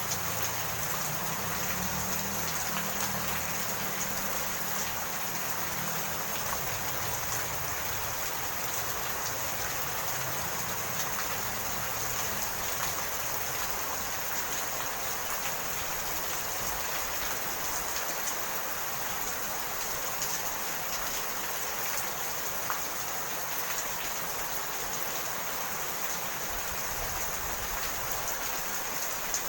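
Steady rain falling, with a dense hiss and scattered drops pattering on surfaces.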